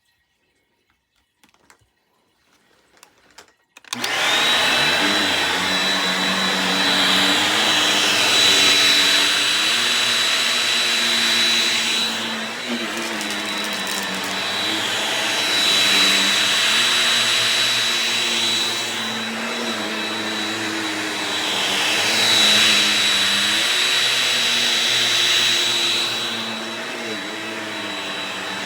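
Shark Rocket stick vacuum switching on about four seconds in after a few faint clicks, then running with a steady high motor whine; its sound swells and dips about every three and a half seconds with slow back-and-forth strokes.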